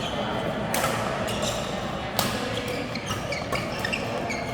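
Background voices in a large hall, with two sharp knocks, about a second and two seconds in, and short squeaks.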